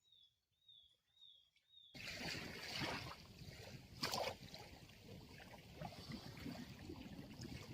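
A faint, wavering bird call repeats a few times. About two seconds in, sea water starts washing and splashing against the shore, a steady rushing with one louder splash about four seconds in.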